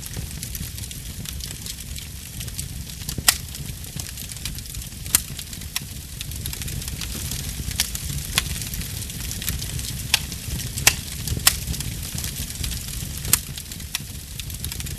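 Wood fire in a fireplace crackling over a steady low rumble, with sharp pops every second or two.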